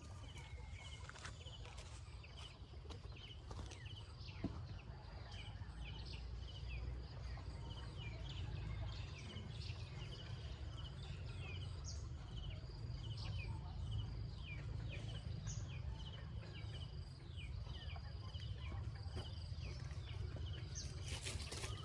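Birds chirping: many short, high chirps repeated throughout, over a low steady rumble, with some rustling near the end.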